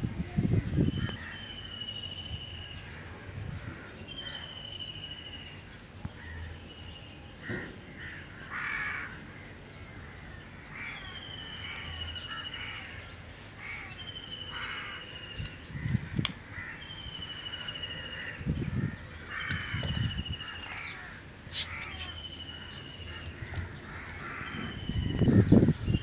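Birds calling: a short, slightly falling call repeated over and over, mixed with crows cawing. A few low thuds near the start and again near the end.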